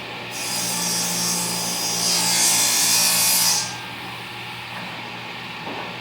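Table saw cutting a small piece of wood for about three seconds, then running on without load.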